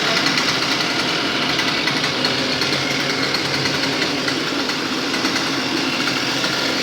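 Carver 3.8 small outboard motor, fitted with a Suzuki muffler, running steadily at a constant speed.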